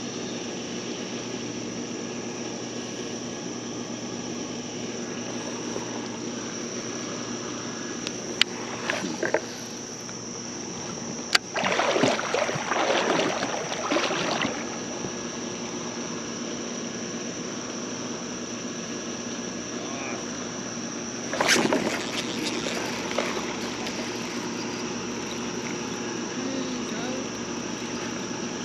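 Steady outdoor creek noise with a faint high whine, broken by three short bursts of louder splashing and rustling, the longest lasting about three seconds near the middle.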